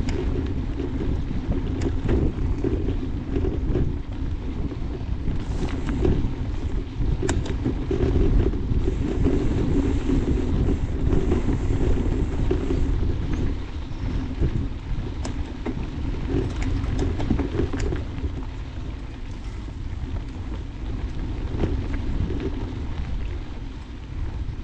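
Wind buffeting the microphone of a camera carried on a moving mountain bike, over the rumble of tyres rolling on a dirt trail, with scattered sharp clicks and rattles.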